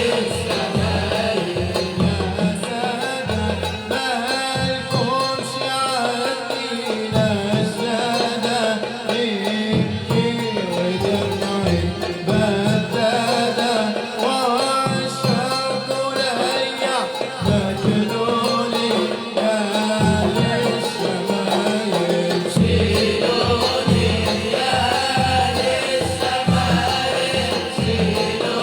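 Libyan malouf ensemble music: a sung, wavering Middle Eastern melody over steady hand-drum beats.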